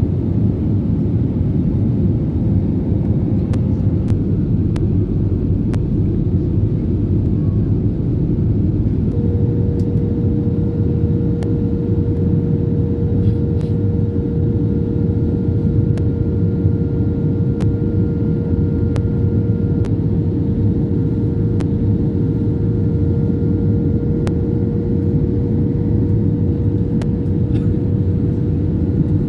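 Steady engine drone with a low rumble, a thin whine joining it about nine seconds in.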